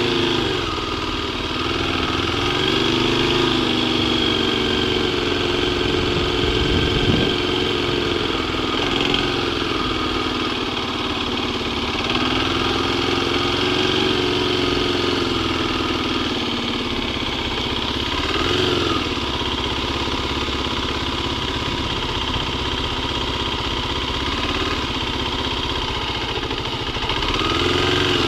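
Kawasaki KLX250 single-cylinder four-stroke engine running at low speed, its pitch rising and falling with the throttle several times, with short quick blips near the middle and at the end.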